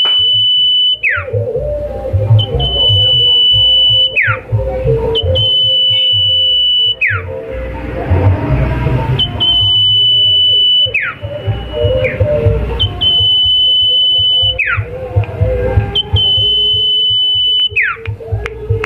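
Sirtu songbird giving its 'nyipow' call over and over: a long, steady, high whistle held for about a second and a half, ending in a quick downward swoop. The call comes about every three seconds, six times, over a low rumbling background.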